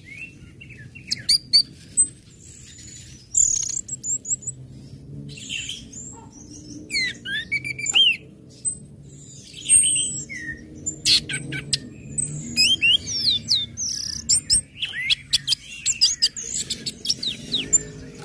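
Orange-headed thrush singing a varied, rapid song of short chirps, quick rising and falling whistles and sharp calls, in phrases broken by brief pauses.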